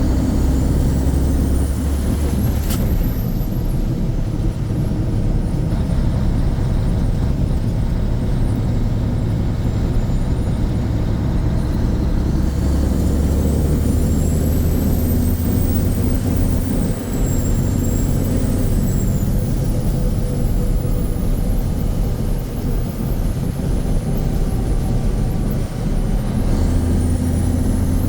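Mack RS700L truck's 285 hp turbocharged diesel engine running steadily as the truck is driven. Its low drone swells and eases several times, with a faint high whistle that rises and falls now and then.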